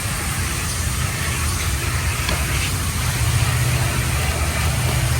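Car engine running with a steady low rumble, an even hiss over it.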